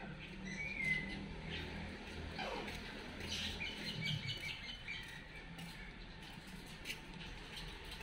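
Short bird chirps: a brief warbled note just under a second in, then a quick cluster of high chirps about three to four seconds in, over a low steady background hum.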